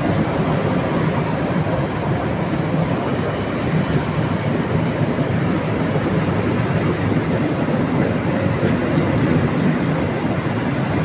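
Sembrani passenger train passing straight through a station without stopping: a steady, loud sound of the coaches' wheels running on the rails.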